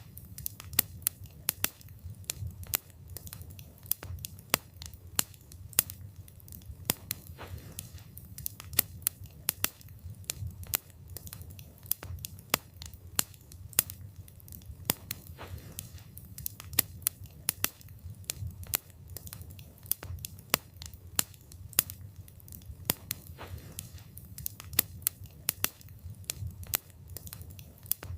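Wood fire burning, with frequent irregular crackles and sharp pops of the burning wood over a low steady rumble of the flames.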